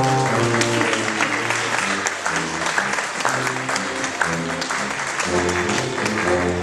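Audience applauding and clapping over instrumental music with held, sustained notes.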